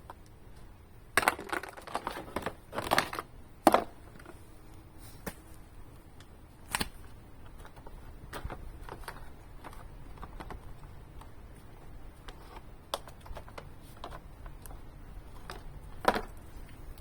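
Scattered clicks and knocks of tools and parts being handled, with a quick cluster of clattering knocks about a second in, a single sharp knock near the middle and another near the end.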